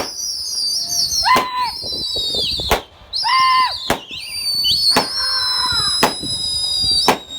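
Shrill, warbling high-pitched whistles, several overlapping and held for seconds, with two shorter lower whistle notes and a few sharp knocks.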